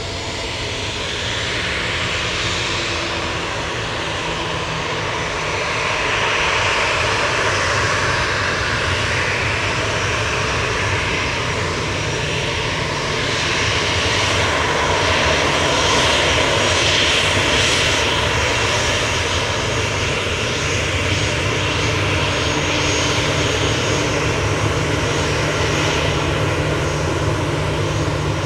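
Airliner engines running, a continuous loud roar that slowly builds and is loudest about two-thirds of the way through.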